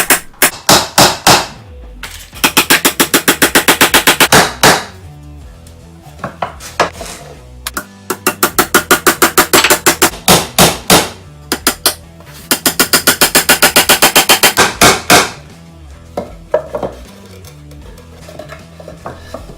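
A hammer driving nails into wooden boards: runs of quick, sharp blows, about four or five a second, with short pauses between runs. Background music plays underneath.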